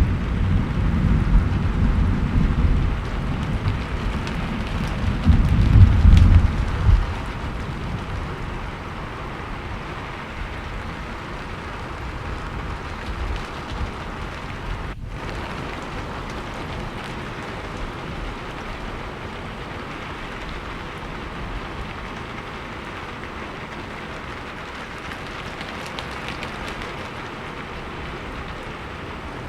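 Steady rain falling on a surface, with a low rumble of thunder for the first several seconds that dies away. After that the rain goes on evenly, with a momentary drop-out about halfway through.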